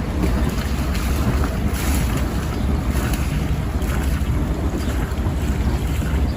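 Barge under way: a steady low rumble, with wind buffeting the microphone.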